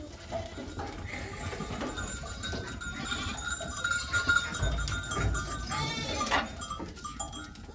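Small livestock bleating in a flock, with one strong bleat about six seconds in.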